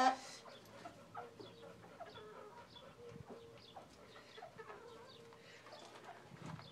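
Chickens clucking softly: a scatter of short, faint calls.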